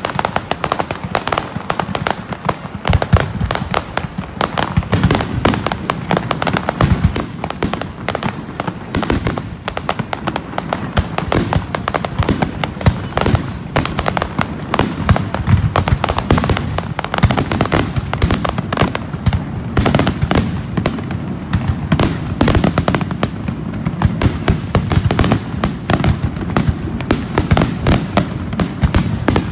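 Fireworks going off in rapid succession, a dense unbroken barrage of bangs and crackling heard close to the launch site.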